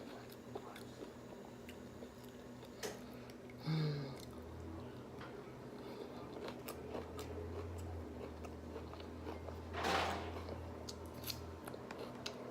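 A person chewing a rice-paper summer roll close to the microphone, with small wet mouth clicks. A low steady hum sits underneath for most of the middle, and a brief louder noisy sound comes about ten seconds in.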